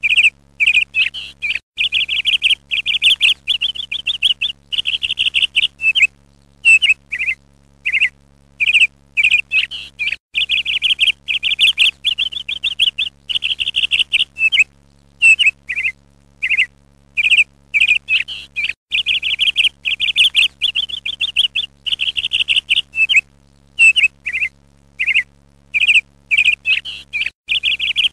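A songbird chirping and trilling in short, rapid phrases with brief pauses between them, over a faint steady low hum.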